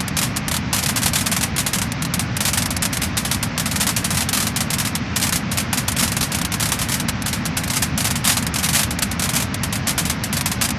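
Wood fire crackling and popping: a dense, constant stream of small snaps over a steady low noise.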